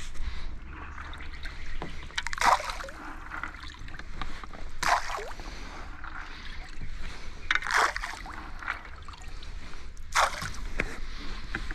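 Oar or paddle strokes dipping and pulling through the water, a splash about every two and a half seconds, over a low steady rumble of river flow.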